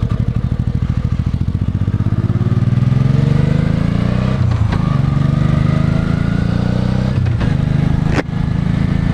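Motorcycle engine pulling away from a low, pulsing beat and accelerating with rising pitch, broken by drops in pitch about four and a half and seven and a half seconds in as it shifts up through the gears. A sharp click comes just after eight seconds.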